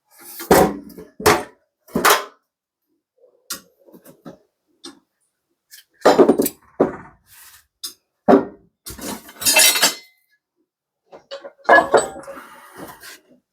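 A run of separate metallic clinks and clatters as steel blocks and parts are shifted and set down on a shop press, with longer scraping clatters about six and nine seconds in.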